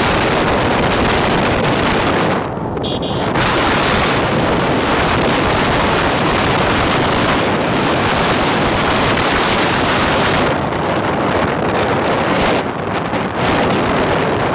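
Wind buffeting the microphone, loud and steady, easing briefly about two and a half seconds in.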